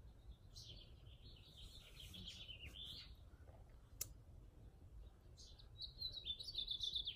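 Wild birds singing: two runs of quick, high chirping notes, the first from about half a second in to three seconds and the second starting near the end, with a single sharp click about four seconds in.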